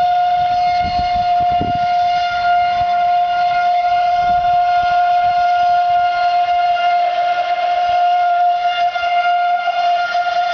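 Brushless electric motor and jet pump of an RC jet boat whining at a steady high pitch, running at constant speed.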